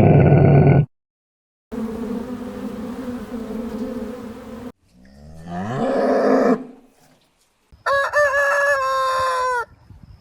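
A series of separate animal calls cut one after another, with short silent gaps between them: a steady, buzzing call, then a call that rises and falls, then one whose pitch drops away at its end.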